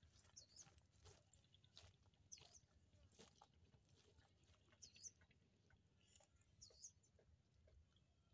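Very faint: short, high bird calls, about four, each a quick rise and fall, every couple of seconds, over scattered faint clicks and ticks.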